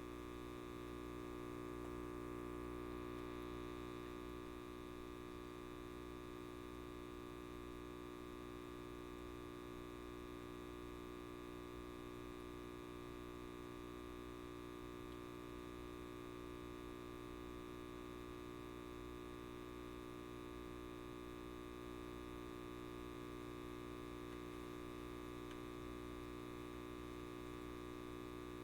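Light bulb buzzing: a steady electrical hum made of many even tones, unchanging throughout.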